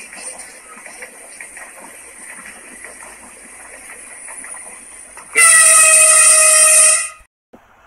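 Vande Bharat Express (Train 18) electric trainset running through at speed: a steady rush with rapid clicking of the wheels on the rails. About five seconds in comes a loud horn blast of several tones together, lasting about a second and a half and cut off sharply.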